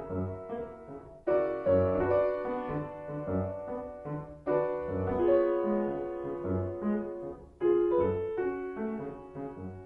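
Piano music: a lively piece with regularly struck bass notes under chords and melody, with a new phrase opening on a loud chord about every three seconds.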